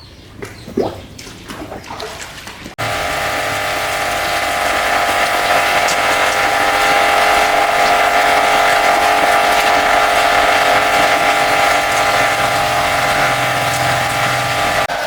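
A few faint handling knocks, then about three seconds in a high-pressure washer starts abruptly and runs steadily: a motor-driven pump's whine under the hiss of the water jet.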